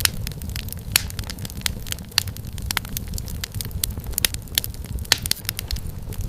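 Wood fire crackling: irregular sharp pops and snaps from burning firewood over a steady low rumble of the flames.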